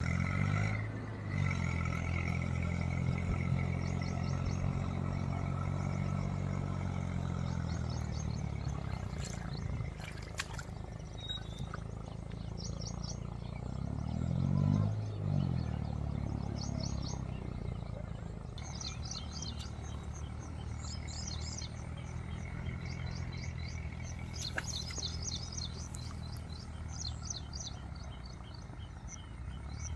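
Tractor engine working at full power while the tractor is stuck in mud, its pitch dipping and recovering about a second in and surging again around the middle. Birds chirp repeatedly in the background through the second half.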